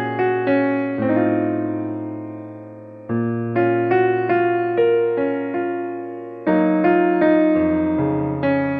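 Background music: a slow piano melody over sustained chords, each note struck and then fading away.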